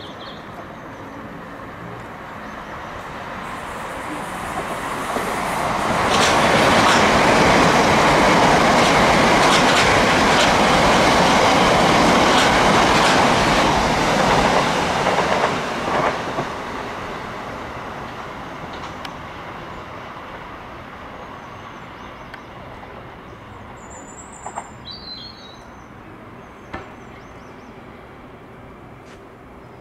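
Electric multiple-unit train passing, building up over a few seconds and loud for about ten seconds, with wheels clicking over rail joints, then fading away. A bird chirps briefly near the end.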